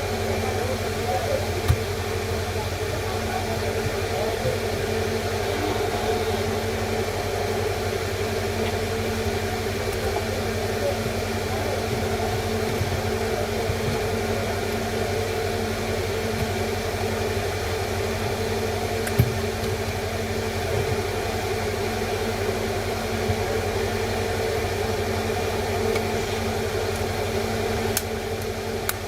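Steady mechanical hum with hiss, with two short sharp clicks, one near the start and one about two-thirds through.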